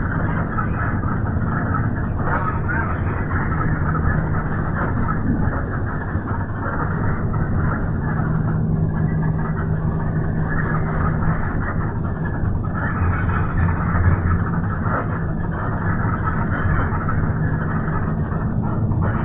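Steady rumble and hum of a moving vehicle heard from inside, with a low engine-like drone underneath.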